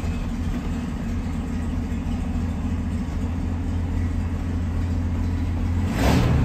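1938 Packard's flathead V12 engine idling steadily, heard from the rear at the exhaust, with a low even rumble that grows slightly louder near the end.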